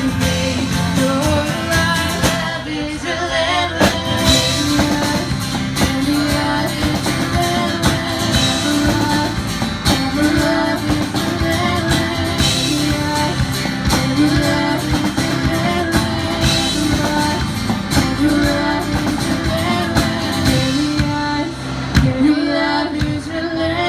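Live worship band playing a rock-style praise song, with singing over electric guitar, bass and drum kit.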